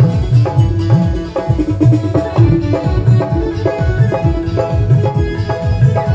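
Tabla playing a rhythm with deep, bending bass strokes, over a melody of held notes from an accompanying instrument.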